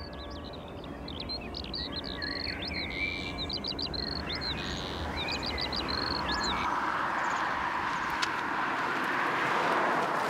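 Small birds chirping in quick short calls, then a rushing noise that swells over the last few seconds.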